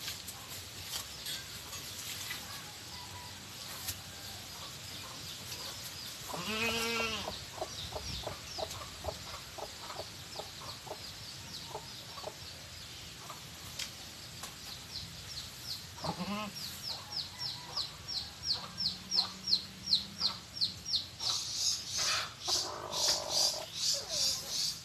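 Pet crested myna calling: a few scattered pitched calls, then a long run of rapid, short, high clicking notes, several a second, in the second half.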